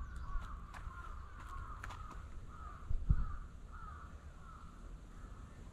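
Repeated short bird calls, about three a second, fading out after about three and a half seconds, over a low rumble with a few clicks and a thump about three seconds in.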